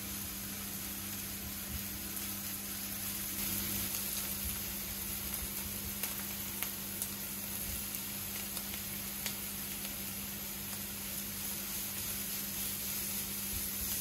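Chopped onion sizzling in oil in a frying pan, a steady hiss with a few small ticks; grated carrot is added and stirred in with a spatula near the end. A steady low hum runs underneath.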